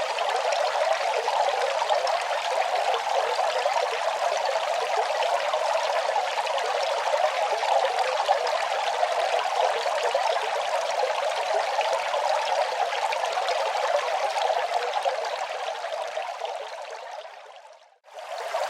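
Steady running water, an even rushing splash. About two seconds before the end it fades away to a moment of near silence and then comes straight back in at full level, like a loop restarting.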